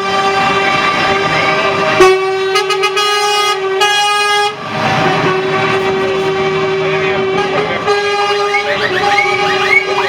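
Truck air horns blowing without a break, several steady-pitched horns sounding together. The chord they make changes about two seconds in, again around the middle, and near eight seconds.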